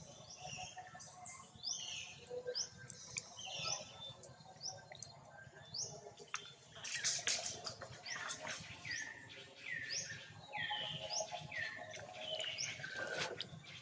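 Several birds chirping and calling: quick rising and falling chirps throughout, and a run of short falling whistles about once a second in the second half, with a few faint clicks.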